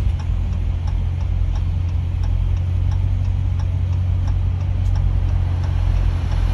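Vehicle engine idling with a steady low drone, and a light regular ticking about three times a second over it.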